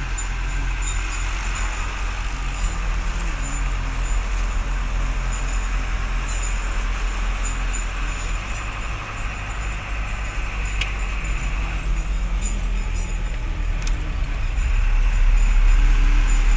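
A truck running on the road: a steady low engine and road rumble with faint rattles, growing louder near the end.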